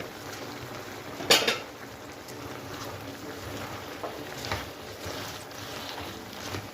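Spoon and cooking pot sounds as washed rice goes into the pelau pot and is worked in: a short loud rush about a second in, then quieter scrapes and a few light knocks.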